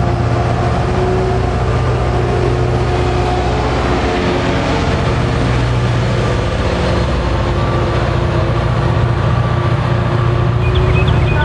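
Diesel locomotive-hauled commuter train running, a loud steady rumble with a low engine drone.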